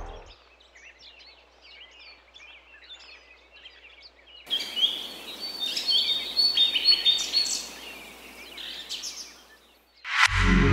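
Wild birds chirping and calling, faint at first, then louder from about four and a half seconds in, with runs of repeated high notes over a steady outdoor hiss. A short whoosh near the end.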